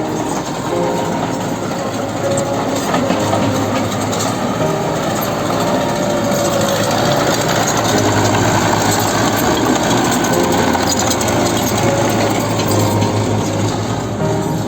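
Komatsu excavator running, a steady engine hum under a dense mechanical rattle and clatter that grows louder through the middle.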